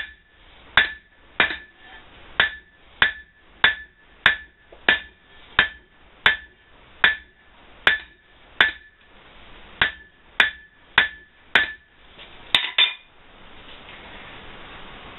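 Blacksmith's hand hammer striking hot steel on an anvil at a steady pace, about one and a half blows a second, each blow ringing: drawing out the handle end of a hand-forged fireplace poker. The hammering stops about 13 seconds in, leaving a steady hiss.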